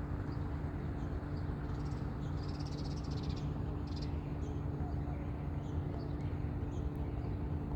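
Boeing 757-300's jet engines running at climb-out power: a steady low drone with a constant hum in it.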